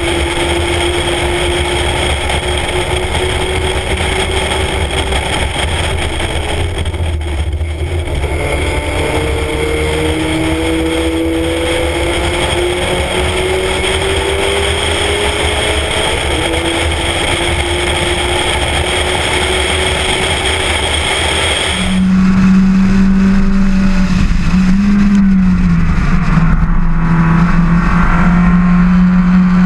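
Spec Miata race car's four-cylinder engine pulling hard at track speed, with wind rushing past the microphone; the revs ease off briefly about seven seconds in, then climb slowly for a long stretch. About 22 seconds in the sound changes abruptly to a louder, steadier low engine drone, with one brief rise and fall in pitch.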